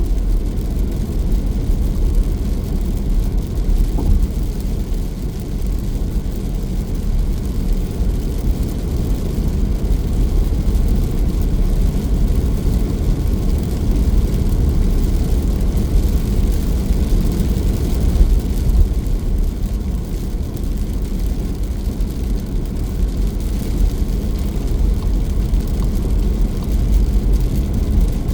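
Steady, even rumble of a vehicle travelling along a road, its sound mostly deep and unchanging.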